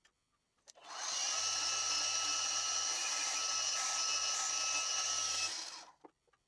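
Milling machine spindle starting up about a second in, running with a steady high whine for about five seconds, then switching off near the end, during a drilling operation on a small metal part.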